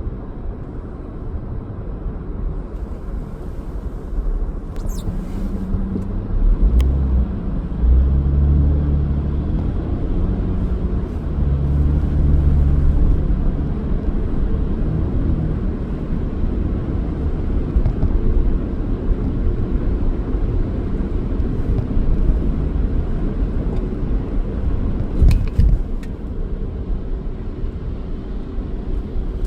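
A car being driven, with a steady low rumble of engine and road noise. It swells louder for several seconds about a quarter of the way in, and there are a few brief sharp clicks.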